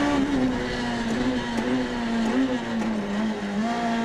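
Renault Clio Super 1600's naturally aspirated 1.6-litre four-cylinder rally engine, heard onboard, held at high revs under full throttle. Its pitch stays nearly steady, easing slightly lower over the few seconds.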